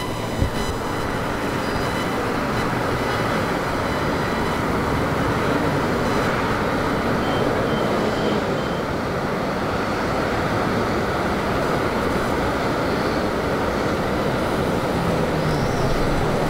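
Airplane flying low overhead: a steady rushing engine noise that holds throughout.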